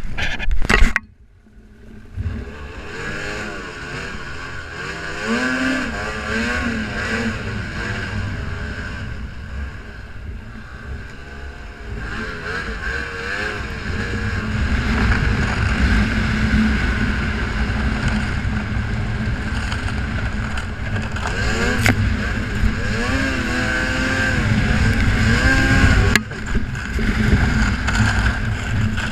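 Snowmobile engine running under way, its pitch rising and falling as the throttle is worked, over a heavy low rumble. A few sharp knocks sound in the first second, and the engine briefly drops off near the end.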